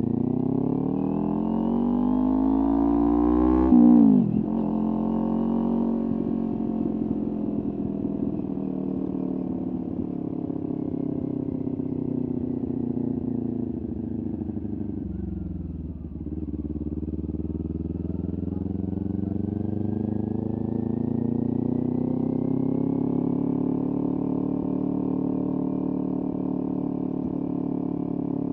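Kawasaki Ninja 400's parallel-twin engine through a LeoVince aftermarket exhaust, under way. The revs climb for about four seconds and drop sharply at a gear change. They then hold, fall away slowly, and build gently again.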